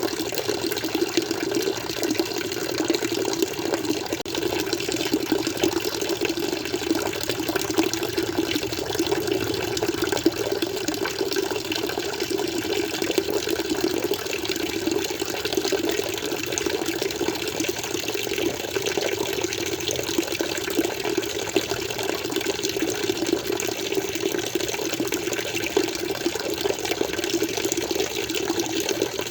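Aquarium water flowing and splashing steadily, an unbroken rush with no pauses or changes.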